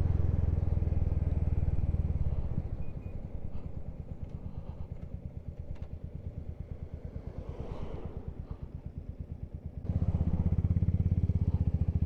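Motorcycle engine running under way, then dropping to a quieter, evenly pulsing engine note about two and a half seconds in as the bike slows for a turn. About ten seconds in the louder steady rumble returns as it pulls away.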